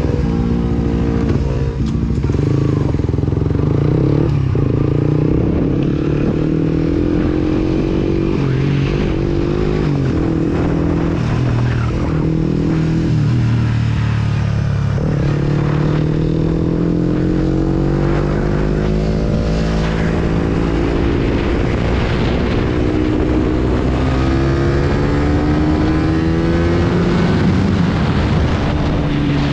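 Sport motorcycle engine under way, its pitch climbing and dropping over and over as the rider accelerates, shifts and slows.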